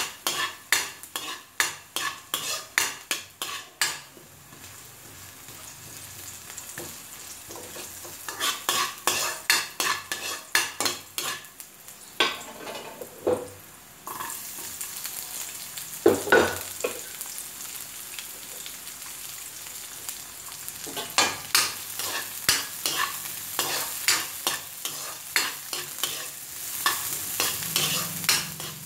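Metal spoon stirring and scraping minced garlic frying in oil in a wok, in quick runs of about three strokes a second over a steady sizzle. About halfway, chopped onion is in the pan and the sizzle grows louder and hissier, with one sharp knock of the spoon on the pan soon after.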